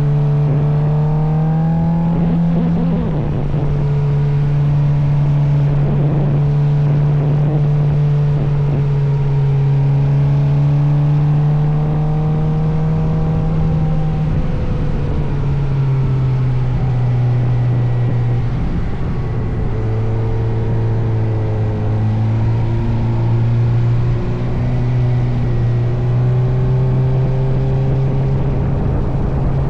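Motorcycle engine running steadily under way, heard from the bike, with a rushing noise underneath; its pitch steps down a few times as the throttle or speed changes.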